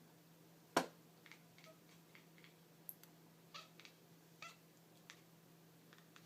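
A cat making short, faint chirps and chattering calls, the excited sound a cat makes at a light reflection or laser spot it is stalking. One sharp click stands out, louder than the rest, about a second in.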